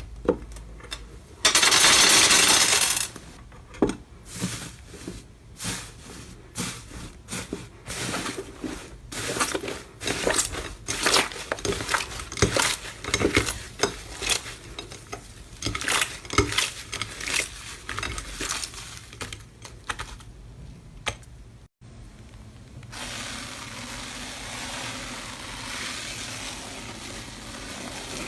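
Slime being worked by hand, giving a long run of sharp sticky clicks and pops. There is a loud rush of noise near the start, and after a short break near the end a softer, steadier crackle.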